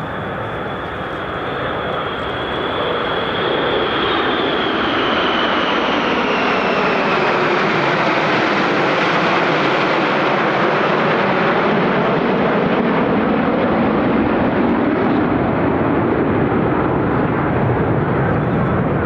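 Jet noise from F-35A fighters' single F135 turbofan engines passing in formation: it swells over the first few seconds, with a high whine that falls in pitch, then holds loud and steady.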